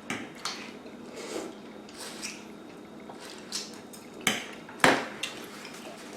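Eating at the table: scattered light clicks and clinks of food and utensils against dishes, with two sharper clinks a little past four seconds and about five seconds in.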